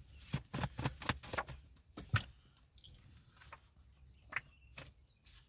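Tarot cards being shuffled and handled: a run of quick, irregular clicks and riffling rustles that thin out after about two seconds.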